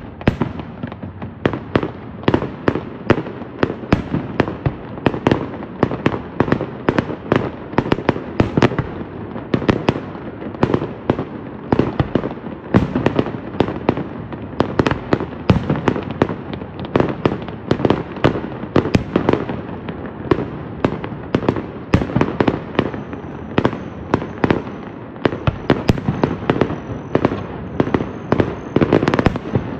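A fireworks display going off in rapid succession: a dense, unbroken string of sharp bangs and crackles, two or three a second, from bursting aerial shells and rising rockets. A low rumble of echoing reports fills the gaps between them.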